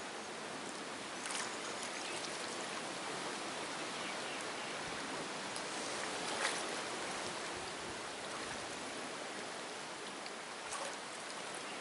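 Steady rush of moving water, with short louder splashes about a second in, midway, and near the end.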